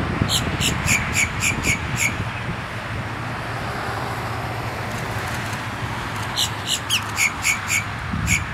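A bird calling in two runs of about eight quick, repeated notes, roughly four a second, the first notes of each run higher-pitched than the rest. There is a steady low hum underneath.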